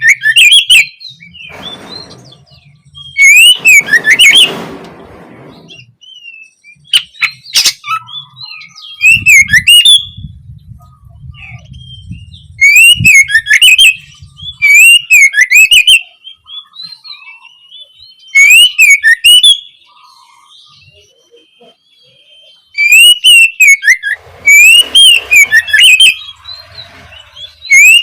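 Oriental magpie-robin (kacer) singing loud bursts of rapid chirps and whistles, each burst lasting one to two seconds, repeated with short pauses.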